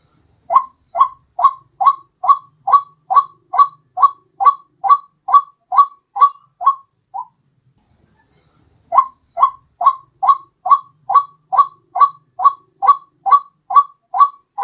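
White-breasted waterhen's call, a loud note repeated about two to three times a second in a long run, then a pause of about two seconds before a second run. It is a recorded lure call (suara pikat) used to attract the bird.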